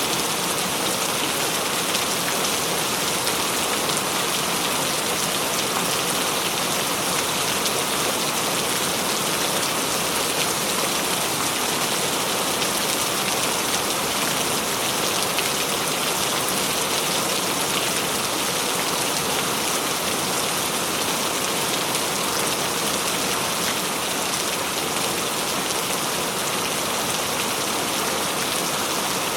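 Steady heavy rain falling and pattering on surfaces, an even hiss full of fine drop ticks with no break or change.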